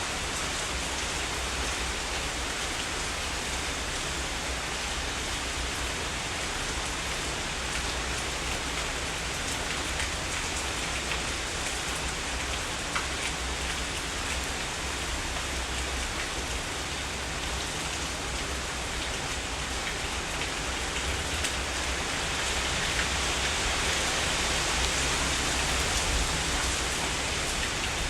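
Heavy rain falling steadily and densely, growing a little heavier for a few seconds near the end.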